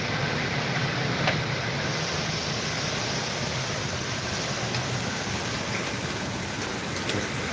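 Steady rushing noise of hurricane wind outdoors, with a faint click about a second in.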